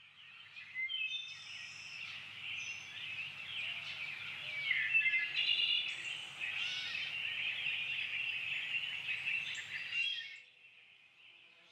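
A chorus of many wild birds singing and chirping at once, over a faint low hum. It stops abruptly about ten seconds in, leaving only a few faint chirps.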